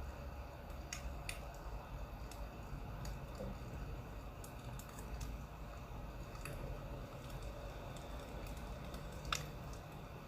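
Burning firewood crackling: irregular sharp pops over a low steady rumble, with one louder pop near the end.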